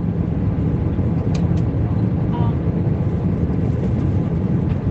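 Airbus A320 passenger cabin noise in flight: a steady low hum, with two faint clicks about a second and a half in.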